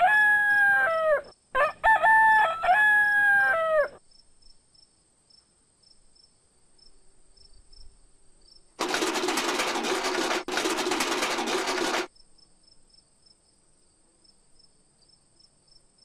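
Rooster crowing twice in the first four seconds. Later comes a loud, even rushing noise of about three seconds, broken once in the middle, with faint regular cricket chirps behind it.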